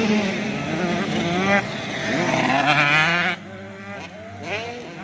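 Several 85cc two-stroke motocross bikes revving hard, their pitch rising and falling with throttle and gear changes; it is louder for the first three seconds, then drops away as the bikes move off.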